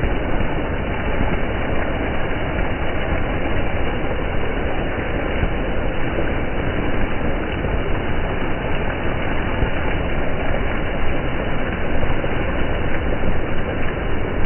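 Steady rushing noise of water splashing on a rain-wet street, with a strong low rumble and no separate splashes standing out.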